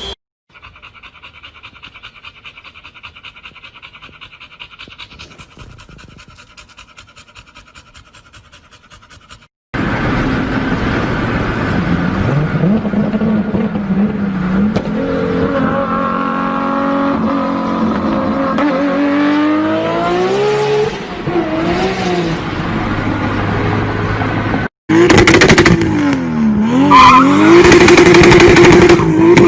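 Loud-exhaust car engines in three separate clips. First a faint, rapid, steady pulsing idle. Then an engine revving up and down loudly, then a very loud engine whose pitch drops and climbs back up near the end.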